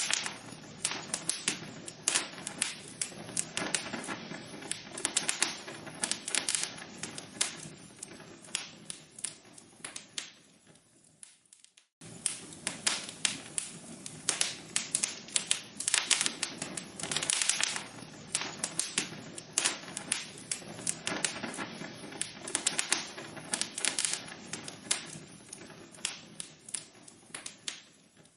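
Burning logs in a fireplace, crackling and popping with dense sharp cracks. The crackling thins out and fades, cuts off suddenly about twelve seconds in, then starts again at full strength as the recording loops, and fades again near the end.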